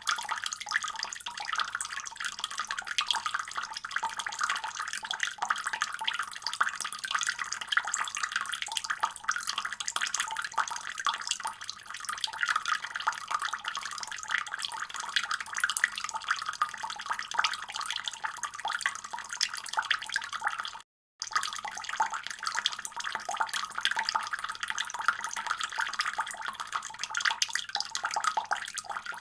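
Tap water running steadily from a faucet in a continuous splashing stream. The sound breaks off completely for a split second about three-quarters of the way through.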